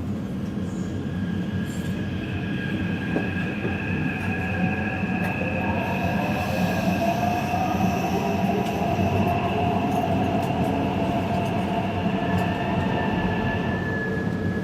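Taipei Metro Zhonghe–Xinlu line train running, a steady rumble with several high, steady whining tones over it.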